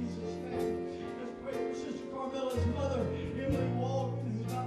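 Slow live worship band music: sustained bass and keyboard chords that change a few times, over a soft beat about once a second.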